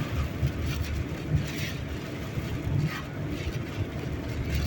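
Steady low road and engine rumble inside a moving car, with the car being buffeted by strong gusts of wind.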